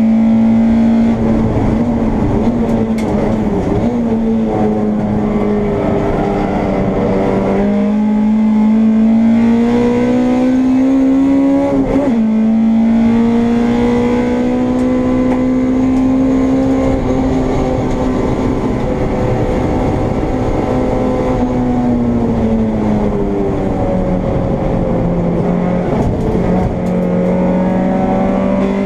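Honda Integra race car's engine heard on board at racing speed. Its note climbs steadily, with two sharp drops at upshifts about eight and twelve seconds in. It falls away for a few seconds a little past twenty seconds, then climbs again near the end.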